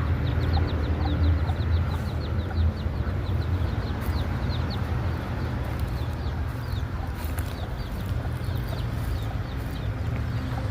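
Chicks peeping: short, high, falling peeps, a few a second, over a steady low rumble.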